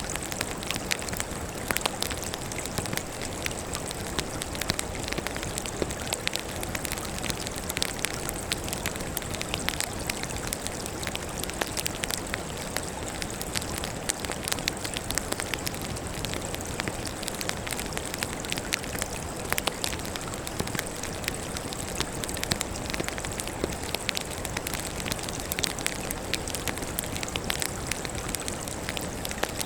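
Wood fire burning, crackling steadily: many quick irregular pops and snaps over a constant hiss.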